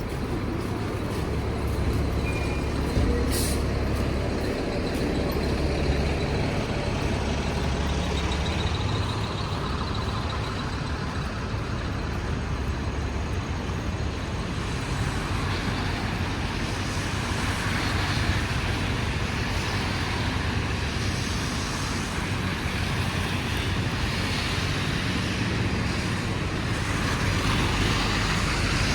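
City street traffic: heavy vehicles running past with a steady low rumble.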